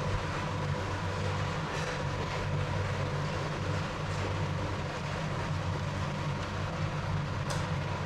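Steady low mechanical hum and rumble of a revolving sushi restaurant's background, with faint steady tones over it and a few soft clicks about two, four and seven and a half seconds in.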